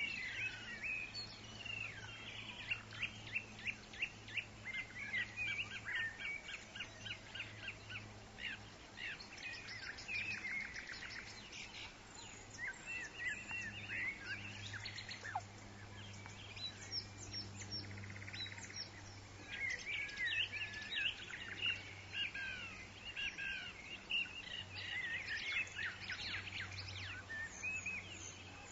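Several forest birds calling and singing, with rapid series of short repeated notes and chirps coming in overlapping bursts, over a steady low hum.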